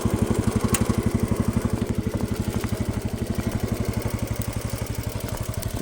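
Single-cylinder Kohler engine of a vintage Cub Cadet garden tractor running steadily with an even, rapid exhaust beat, easing slightly about two seconds in.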